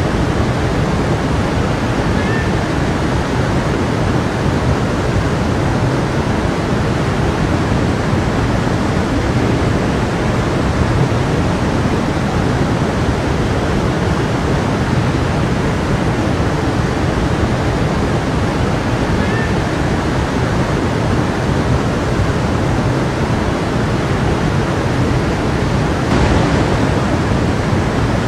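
Creek water flowing, a steady even rush of running water.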